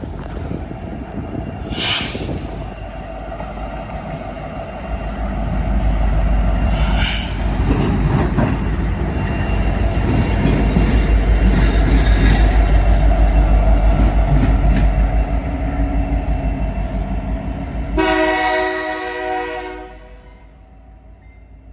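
BNSF diesel locomotives running light rumble past, loudest about halfway through with a rapid, even beat of wheels over the rail joints. Near the end the locomotive horn sounds one blast of about two seconds, and then the rumble drops away.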